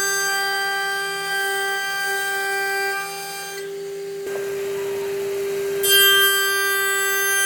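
Electric power tool motor running with a steady high whine. It drops out about three and a half seconds in, gives way to a rougher noise, then starts up again, louder, about six seconds in.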